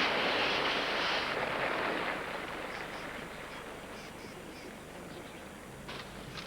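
Acacia branches rustling and seed pods pattering down as an elephant shakes the tree. It is loudest for the first two seconds, then dies away to a light scatter of faint ticks.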